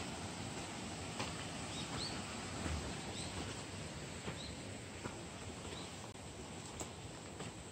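A small bird gives short rising chirps, five or six times, over the steady rush of a mountain stream. Faint footsteps crunch on a dirt track.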